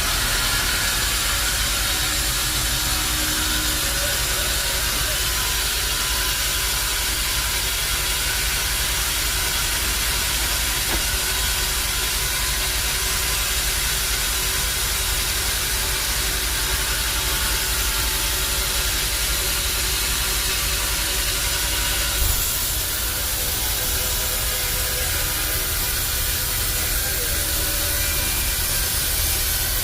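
Bandsaw sawmill machinery running with a steady hiss-like noise. A brief knock comes about 22 seconds in, and the sound changes slightly after it.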